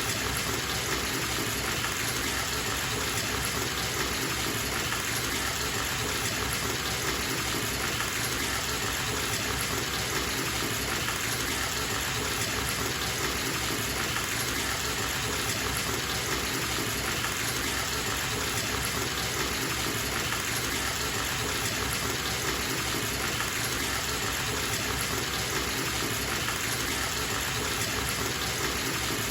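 Bathtub tap running steadily, water gushing into the tub in an even, unbroken rush.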